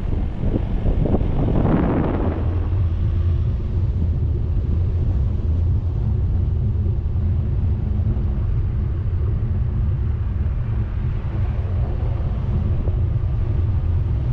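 A vehicle driving, heard from an onboard camera: a steady low engine and road rumble with wind noise, and a brief louder rush about two seconds in.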